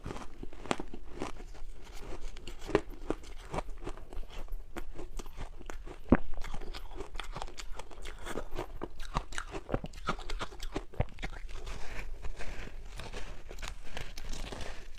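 Crunchy ice dusted with matcha powder being bitten and chewed: a dense run of sharp crunches and cracks, the loudest about six seconds in.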